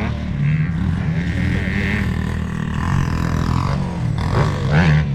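Motocross motorcycle engine running steadily at a low pitch.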